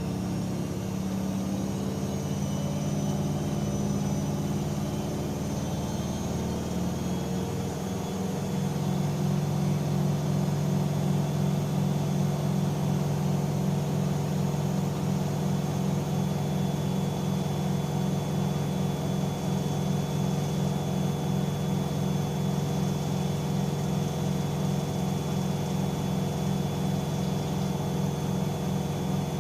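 AEG Öko-Lavamat 88840 front-loading washing machine running, its drum motor humming with a steady whir. About seven to eight seconds in the motor shifts in pitch and gets louder, then holds steady.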